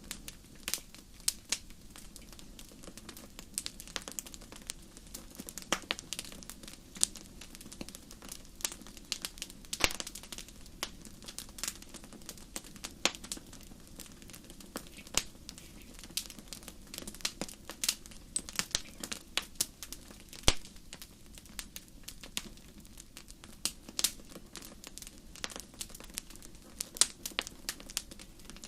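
Wood fire burning in a fireplace, crackling and popping irregularly, with several sharp pops a second over a low steady rumble of the flames.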